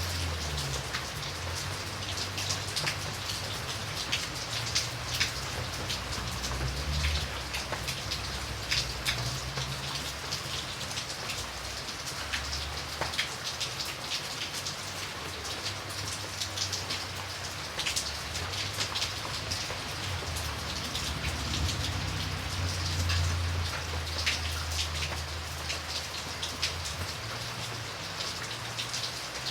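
Steady rain falling, with many distinct drop impacts over an even hiss and a low rumble underneath that swells and fades.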